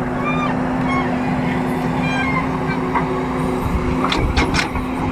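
Heavy diesel engine of earthmoving equipment running steadily, with a few sharp knocks about four seconds in.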